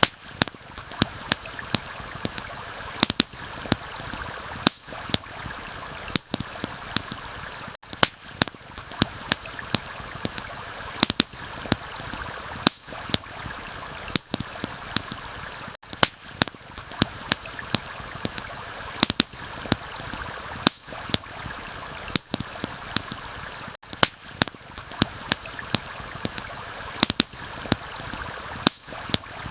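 Campfire crackling, with frequent sharp pops several times a second, over the steady rush of a stream. The whole bed briefly dips about every eight seconds.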